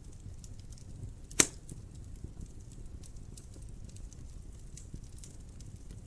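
Wood fire in a fireplace crackling over a low rumble of flame, with scattered small snaps and one loud sharp pop about a second and a half in.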